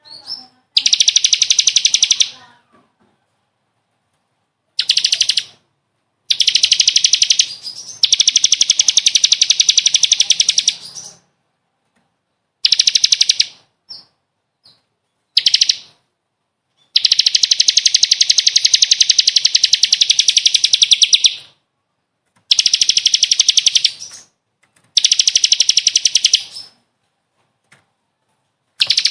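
A songbird singing in loud bursts of very rapid trilled notes, each burst lasting about one to four seconds, with short silences between them.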